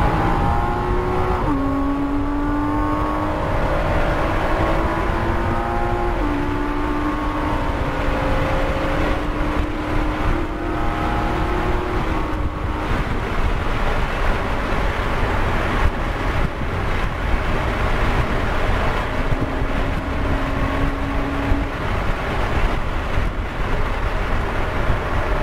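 2014 Porsche Cayman S's flat-six engine, heard from inside the cabin under full acceleration: the pitch climbs steadily and drops back at upshifts about 1.5, 6 and 12 seconds in. After that the car runs at high speed, with wind and road noise filling in.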